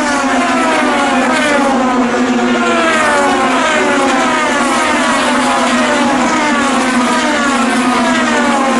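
IndyCar race cars' twin-turbo V6 engines at racing speed, the pitch falling again and again about once a second as cars go by.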